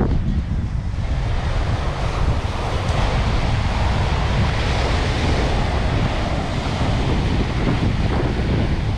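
Surf washing onto a beach, with wind buffeting the microphone in a steady low rumble; the hiss of the water swells louder in the middle.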